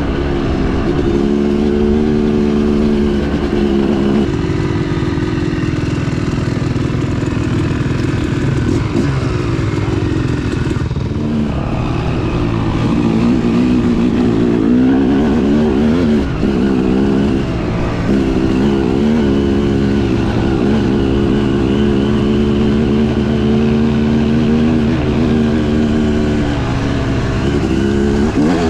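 Dirt bike engine running hard on a trail ride, its pitch rising and falling over and over with the throttle.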